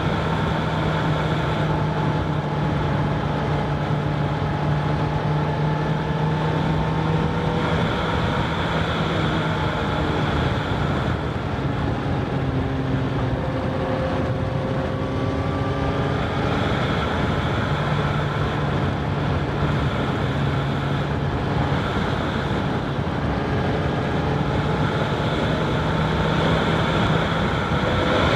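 Honda CBR1000RR SP's inline-four engine running while the bike is ridden, its pitch sagging around the middle and climbing back up as it speeds up again, with some wind noise on the microphone.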